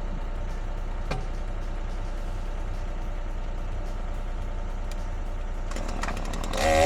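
An engine idles steadily with an even low hum. Near the end a chainsaw revs up loudly.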